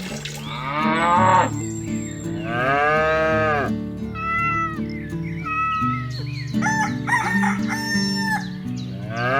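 Cows mooing twice in long, arched calls, followed by chickens calling and a rooster crowing, over a light background music track.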